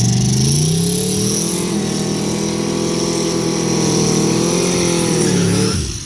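Turbocharged drag-racing engines at wide-open throttle during a pass, the pitch climbing over the first second and then holding high and steady. The engine sound cuts off sharply shortly before the end.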